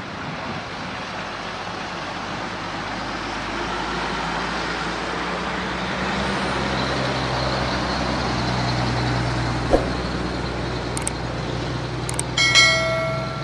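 A heavy diesel truck approaching and passing close by on the road, its engine note growing louder through the middle, with road noise. Near the end comes one short horn blast.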